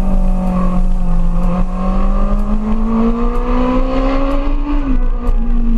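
Kawasaki ZX-25R's inline-four engine through an Akrapovic GP Evolution exhaust, running under way. The revs climb gradually for a few seconds, then drop abruptly about five seconds in and pick up again.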